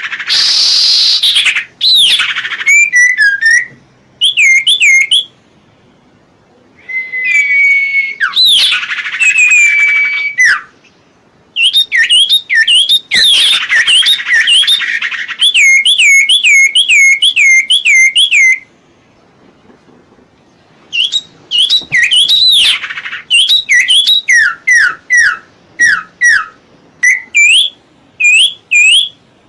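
A songbird known to bird-keepers as serpu or cipo singing: bursts of quick, repeated whistled notes that swing up and down in pitch, broken by short pauses.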